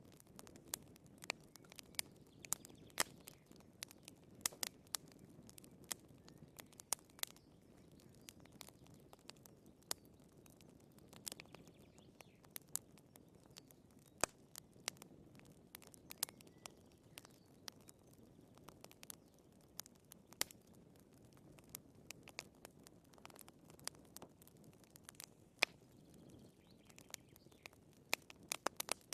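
Wood fire in a fireplace crackling: irregular sharp pops and snaps, several a second at times, over a soft low rumble of the burning logs.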